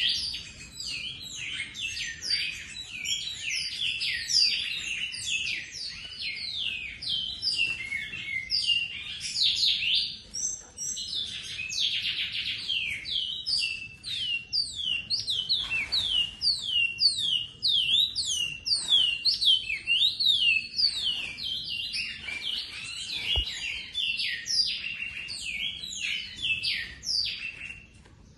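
Great-billed seed finch (bicudo) singing a long, fast run of whistled notes, most of them falling in pitch, with brief pauses about ten and fourteen seconds in.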